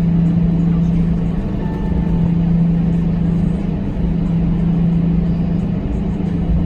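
Steady drone inside an Airbus A321 passenger cabin on the ground: a constant low hum over a rumble.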